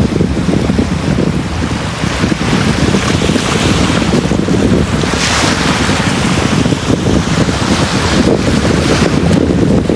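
Sea waves breaking and washing onto a beach in a continuous rush over a steady low rumble; the surf swells about halfway through and again near the end.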